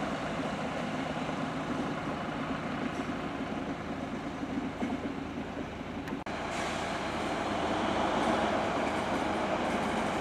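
Diesel locomotive running steadily in a rail yard. About six seconds in, the sound cuts abruptly to a slightly louder freight train rolling on the rails.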